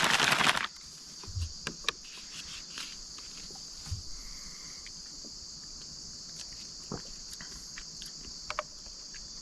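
A steady high-pitched chorus of crickets or similar night insects, with a few small clicks and knocks of handling. A loud rustling burst fills the first half-second.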